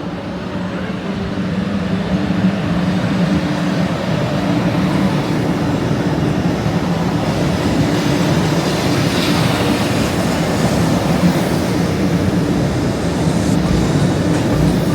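Shinkansen train running, its noise building over the first couple of seconds and then holding steady.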